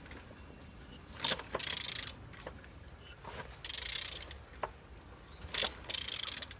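Renault K9K diesel engine being turned over by hand with a ratchet wrench: the ratchet clicks in a few short bursts as the handle swings back, with single knocks in between. The engine turns freely, not seized.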